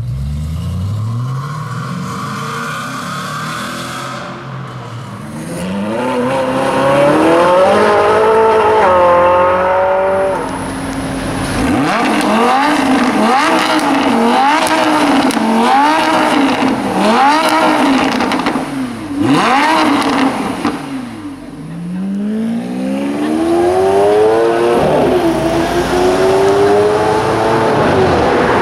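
Supercar engines revving hard, among them a Lamborghini Huracán's V10. Long pulls with the revs climbing, then a run of quick throttle blips about once a second, then another hard acceleration with the revs rising steadily.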